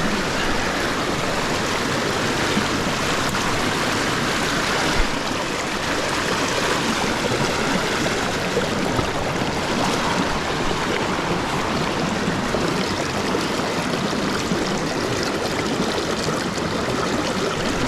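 Small moorland stream running over rocks, a steady rush of water close by.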